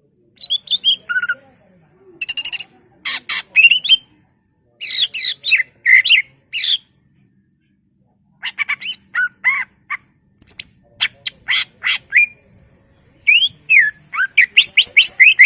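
Cucak ijo (green leafbird) singing in bursts of rapid chattering, harsh and whistled notes with quick pitch glides, split by short pauses. This is its varied, mimicry-filled song, the kind used to provoke other cucak ijo.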